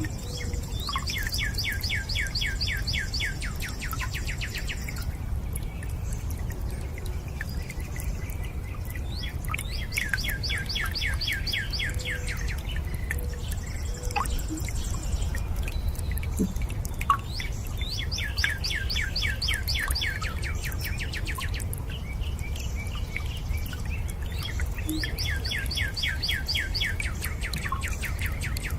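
A songbird singing a trill of fast, downward-sweeping notes about four seconds long, four times at roughly eight-second intervals, over a steady low rush of water with a few single drips.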